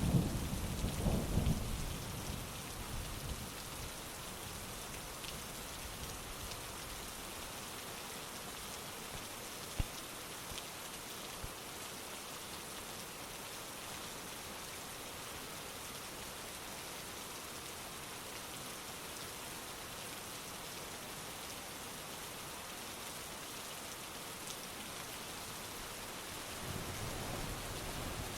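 Heavy rain falling steadily in a thunderstorm. A thunder rumble dies away in the first couple of seconds, and another starts to build near the end. There is a single sharp tick about ten seconds in.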